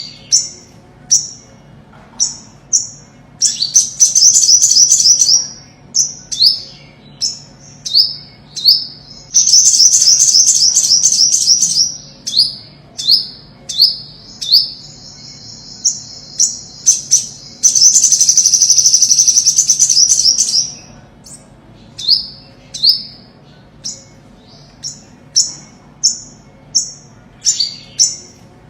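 Olive-backed sunbird singing: a string of short, high, falling notes, one or two a second, broken three times by loud, fast trills lasting two to three seconds each.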